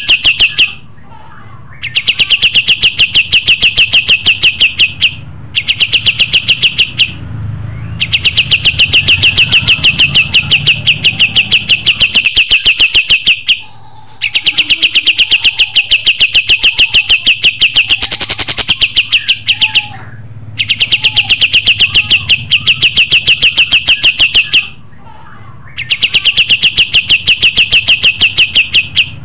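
Kapas tembak bird song: a rapid, even rattle of sharp high chirps, about ten a second, delivered in long bursts of a few seconds with brief pauses between them.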